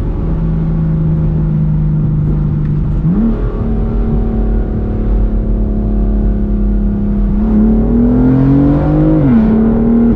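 BMW M4's twin-turbo straight-six engine and exhaust under way: the note holds steady, jumps up in pitch about three seconds in, holds again, then climbs under acceleration and drops sharply at a gear change near the end.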